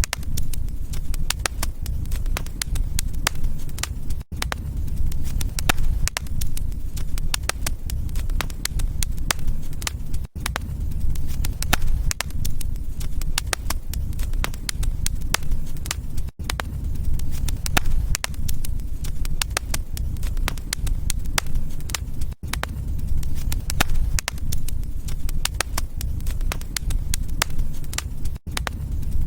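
Wood fire crackling in a fireplace: frequent sharp pops and snaps over a steady low rumble of the flames. The sound cuts out very briefly about every six seconds.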